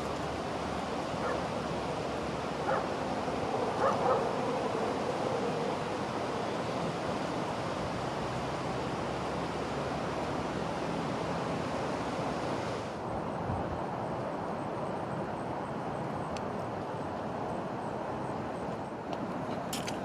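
Strong wind blowing over the microphone as a steady rushing noise, with a few short animal calls in the first few seconds. About two-thirds of the way through the high hiss suddenly thins out.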